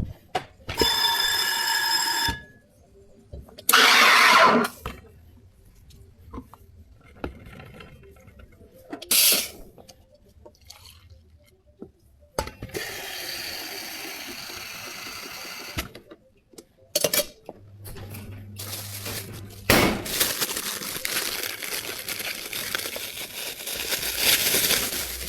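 Drink-making noises at a bubble tea shop counter, coming as separate events: a short pitched tone with overtones near the start, brief noisy bursts and small clicks, a low motor hum, and a sustained rushing noise through the last five seconds.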